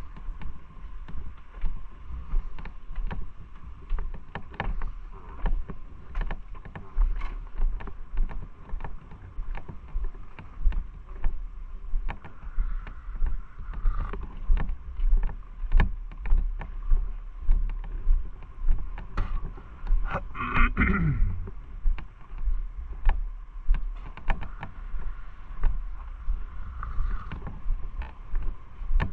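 Motorcycle ride: a low rumble of engine and wind on the microphone, pulsing unevenly in loudness, with a brief falling tone about twenty seconds in.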